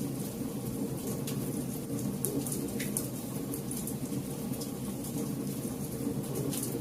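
Campfire burning: a steady low rush of flame with scattered, irregular sharp crackles and pops from the burning wood.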